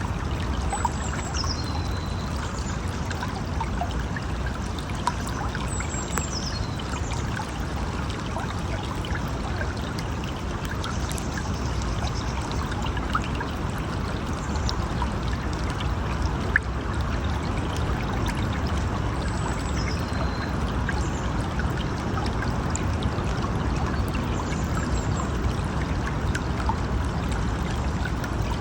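River water flowing in a steady rush, with a few faint, short high chirps now and then.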